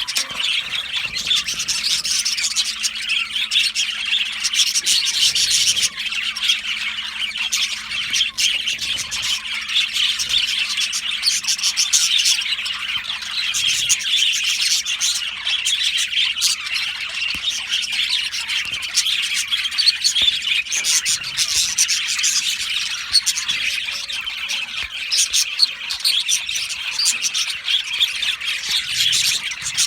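A colony of budgerigars (budgies) chirping and chattering continuously, many birds calling over one another with sharp squawks mixed in.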